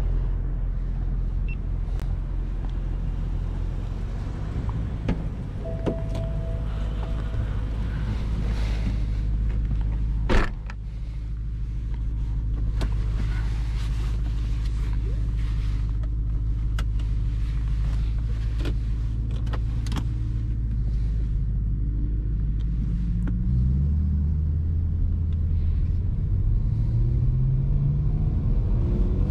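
BMW E92 M3's 4.0-litre V8 idling steadily, with one sharp thump about ten seconds in. Near the end the engine note steps up and then rises in pitch as the revs climb.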